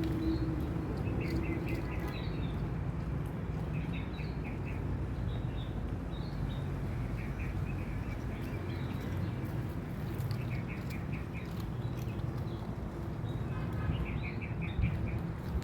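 Small birds chirping in quick short series every few seconds over a steady low background rumble.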